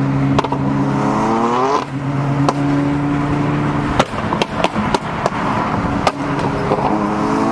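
Car engine accelerating hard, its pitch rising and levelling off over about a second and a half near the start and again near the end, with a steady engine drone between and sharp cracks scattered throughout.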